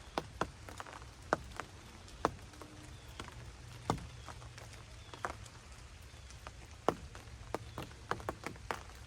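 Rain falling, with scattered large drops ticking sharply and unevenly on a ground blind close by, about two a second, over a faint steady hiss and low rumble.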